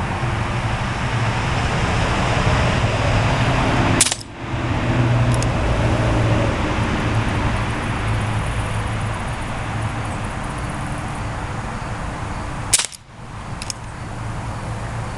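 Two shots from a Crosman CR357 .177 CO2 air revolver, sharp cracks about 9 seconds apart, each followed about a second later by a fainter click. Under them runs a steady background hum like distant road traffic.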